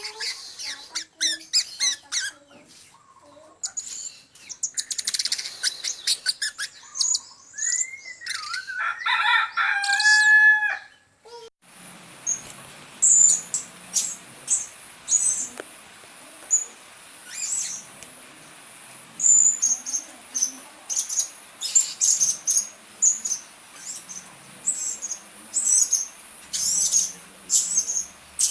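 Blue-crowned hanging parrots calling: lure recordings of high, sharp chirps and calls. About 12 seconds in the recording changes to short, very high chirps repeated irregularly over a steady high hum.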